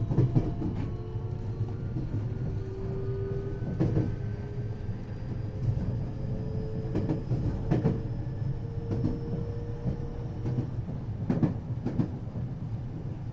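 Running noise inside a 521 series electric multiple unit's motor car: the traction motor whine, several thin tones together, climbs slowly in pitch as the train gathers speed, then stops about ten and a half seconds in as power is shut off. Under it a steady rumble, with the clack of wheels over rail joints every few seconds.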